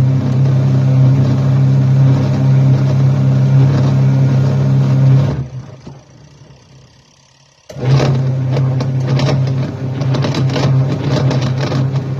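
Twin-tub washing machine's wash motor and agitator gearbox running with a steady low hum, stopping for about two seconds, then starting again with a rapid, irregular clatter of knocks over the hum: the noise of a faulty wash gearbox.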